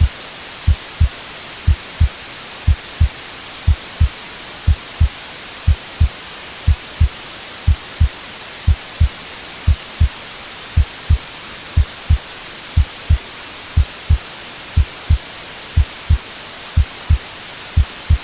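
Heartbeat sound, a steady lub-dub of two low thumps about once a second, over constant white-noise hiss.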